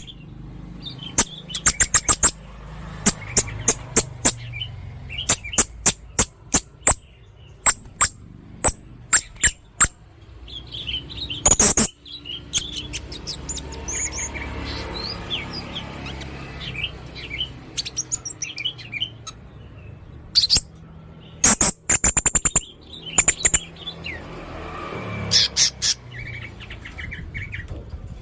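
Serindit hanging parrot calling in rapid-fire runs of sharp, very high-pitched chirps, several short volleys with brief pauses between them: the fast 'tembakan' call of a bird in full song.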